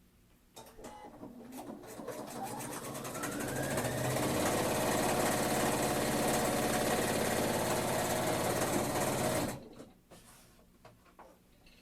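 Electric sewing machine stitching a seam: it starts about half a second in, speeds up over the next few seconds, runs fast and steady, then stops suddenly near the end, followed by a few light clicks.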